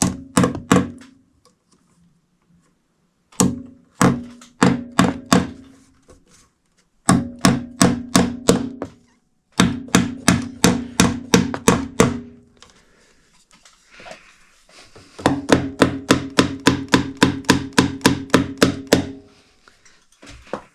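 Hammer blows struck in about five runs of several quick strikes, roughly three to four a second, each blow with a short ringing tone, with pauses between runs.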